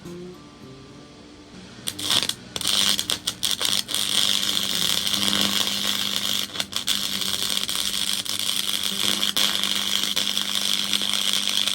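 Flux-core wire welder arc crackling and sizzling steadily. It starts about two seconds in, after a brief lull, under a steady low hum.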